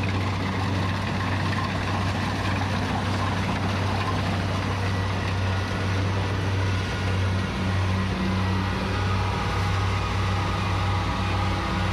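Rice combine harvester's engine running steadily, a continuous low drone with machinery clatter and rattle over it.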